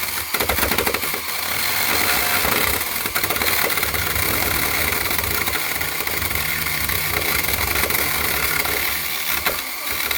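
A small engine running steadily with a mechanical rattle.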